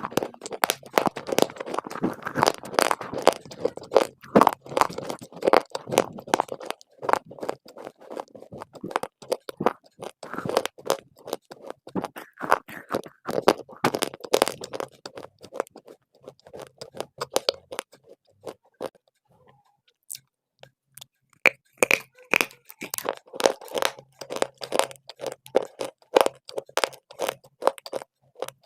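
Close-up crunching and chewing of dry clay, a rapid crackle of small sharp crunches. The crunching thins out and briefly stops a little past the middle, then picks up densely again.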